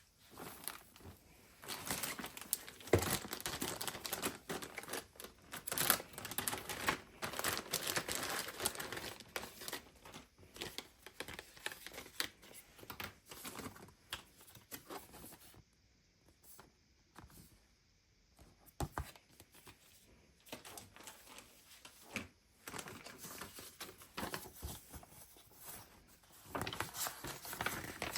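Crinkling and rustling handling noise, with scattered clicks and knocks; it dies down for a few seconds past the middle, then starts again near the end.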